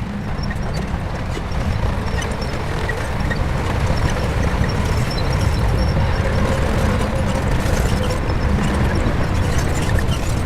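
Shantui crawler bulldozer's diesel engine running steadily under load, a deep continuous drone with faint clatter, growing a little louder over the first few seconds.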